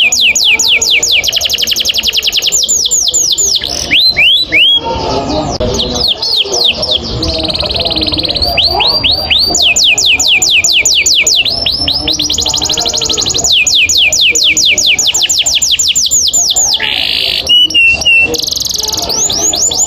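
Canary singing a long rolling song: fast trills of rapidly repeated falling notes, switching to a new phrase every few seconds, with a brief buzzy held note near the end.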